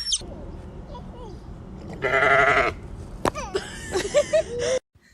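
An animal calling: one loud, quavering, bleat-like call about two seconds in, then several shorter, gliding calls before the sound cuts off near the end.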